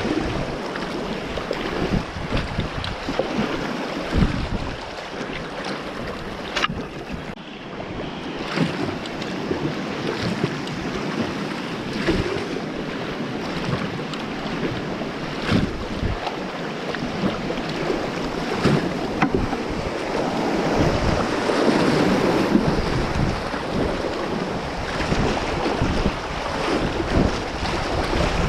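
Rushing river water around a kayak running a whitewater descent, with repeated splashes and wind buffeting the action-camera microphone. The water gets louder about twenty seconds in.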